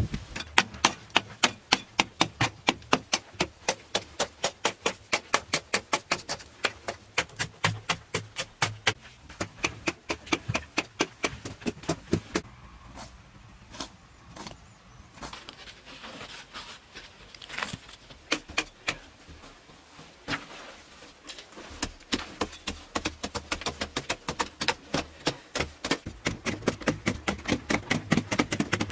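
Rapid, rhythmic strikes of a hand tool, about four sharp knocks a second, pausing twice before starting again.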